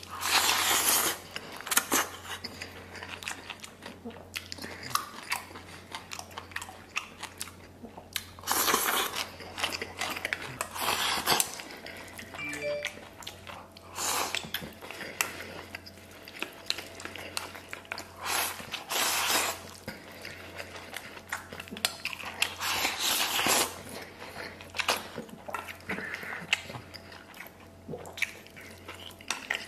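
Close-up eating sounds: a person chewing and biting mouthfuls of braised beef tendon and rice shovelled from a bowl with chopsticks, in repeated noisy bursts every second or two.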